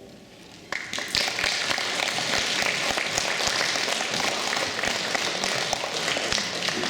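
Audience applauding, starting a little under a second in and dying down near the end.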